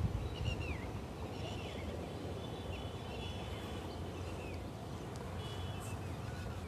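Birds chirping, many short calls that sweep up and down, over a steady low rumble.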